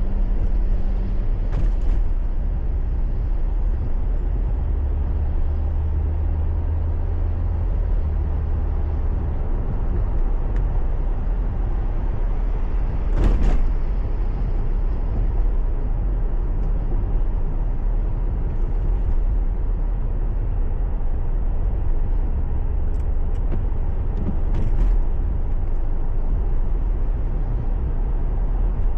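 Car driving on a highway as heard by a dashcam: a steady low rumble of engine and road noise. Three brief knocks cut through it, one near the start, the loudest about halfway, and one near the end.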